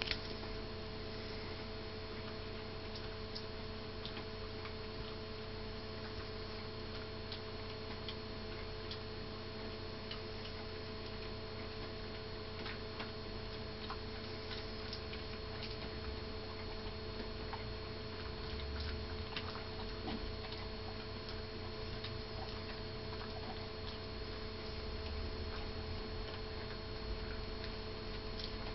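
A greyhound gnawing a Jumbone chew treat: faint, irregular clicks of teeth on the chew, over a steady electrical hum.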